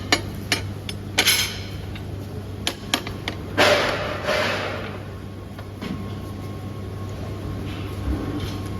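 Metal clanks and knocks from steel parts being handled in a fabrication shop, over a steady machine hum. A short rushing hiss comes about three and a half seconds in.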